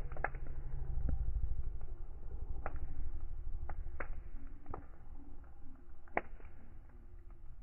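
Wood fire burning with a low rumble and sharp, scattered crackles and pops, about six in a few seconds, the loudest near the end.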